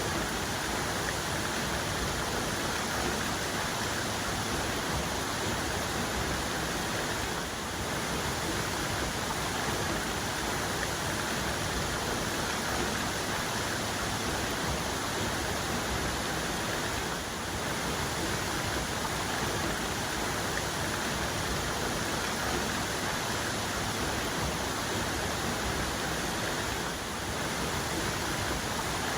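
Waterfall cascade: water falling and pouring in a steady, even rush.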